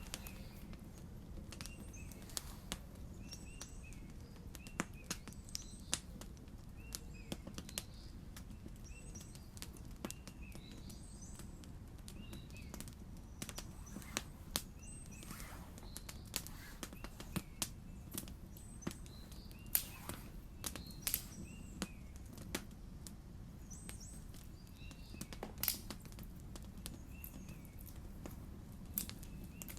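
Wood campfire crackling, with irregular sharp pops about once or twice a second over a low steady hiss. Faint small birds chirp now and then.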